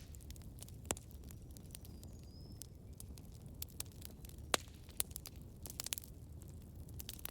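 Campfire burning: irregular sharp crackles and pops from the wood over a low, steady rumble of the flames, with one louder pop about four and a half seconds in.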